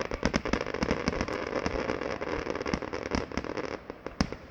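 Fireworks going off: a rapid run of sharp bangs over dense crackling for about three seconds, thinning to a few separate bangs near the end.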